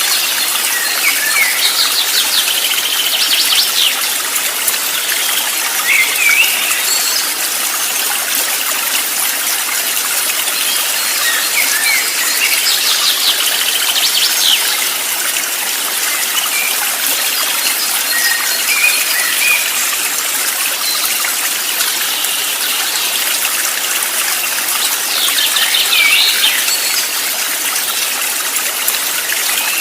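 Steady rush of flowing stream water, with clusters of bird chirps and quick trills recurring about every ten seconds.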